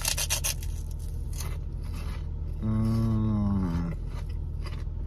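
Crisp crunching of pork rinds being bitten and chewed, mostly in the first second and a half. About two and a half seconds in comes a hummed, falling "mmm" from the man chewing. A low steady hum of the car cabin runs underneath.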